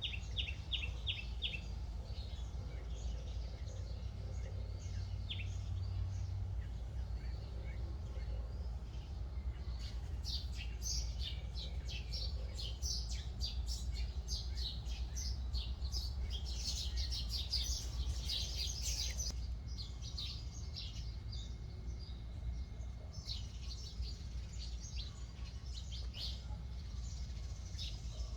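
Small birds chirping and twittering: a quick run of repeated short notes near the start, then dense overlapping chirps through the middle and again near the end. A steady low rumble runs underneath.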